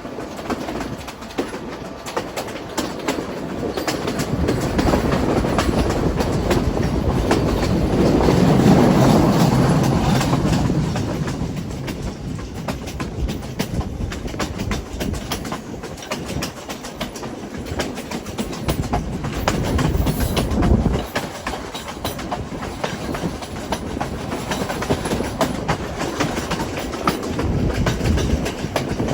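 Passenger train running along the track, heard from aboard: a steady rumble of the carriage with the wheels clicking over rail joints, swelling louder about eight to eleven seconds in and again near twenty seconds.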